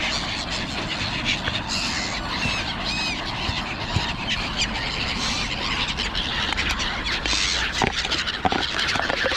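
Wild birds calling: a few short high calls about two to three seconds in, over steady outdoor background noise.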